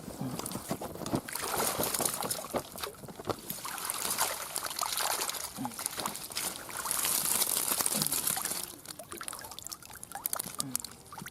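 Water sloshing, splashing and trickling off as a keep net of caught fish is lifted out of the river.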